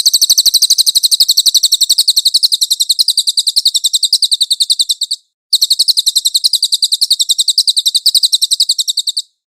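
Cililin songbird calling in a rapid, even trill of high chirps, about ten a second. It comes in two long bouts with a brief break about five seconds in.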